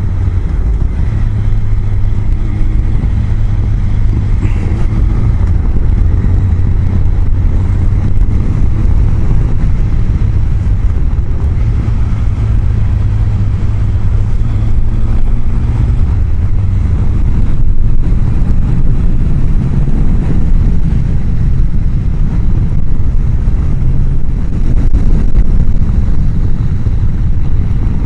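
Honda CBR1000F inline-four running steadily at road speed, heard from inside the rider's helmet under a heavy rush of wind through the chin-bar vent that the microphone sits behind. The engine's steady hum fades into the wind noise about halfway through.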